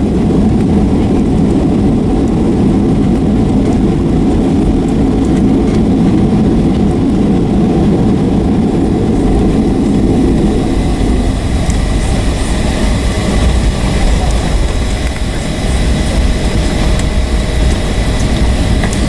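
Cabin noise of a Boeing 757-300 rolling along the runway after touchdown: a heavy, steady rumble that eases about ten seconds in as the jet slows. After that, a low rumble and a faint, steady engine whine remain.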